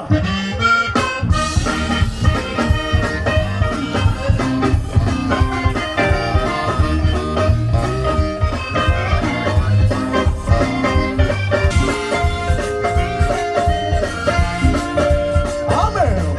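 Live band playing an upbeat Louisiana boogie dance tune, with accordion over a steady drum beat.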